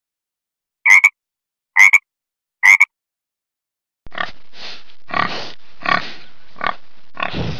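Frog croaking three times, short calls about a second apart, each a quick double note. Then, from about four seconds in, a wild boar grunting repeatedly over steady background noise.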